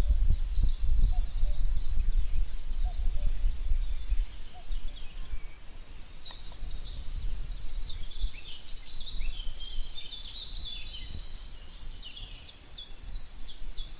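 Several birds chirping and trilling over a low background rumble, the rumble strongest in the first few seconds and fading out. Near the end one bird gives a quick run of repeated high notes, about six a second.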